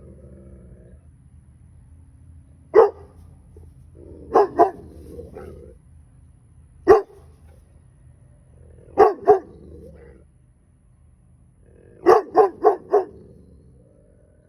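A dog barking in short bursts: single barks, then doubles, ending in a run of four quick barks, with a low growl between them. These are warning barks at perceived intruders.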